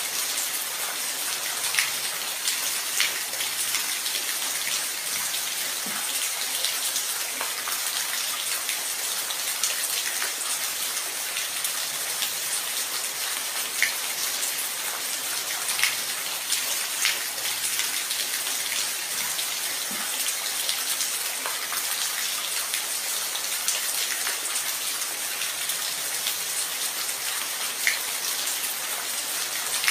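Steady rain falling, an even hiss with louder single drops landing every second or two.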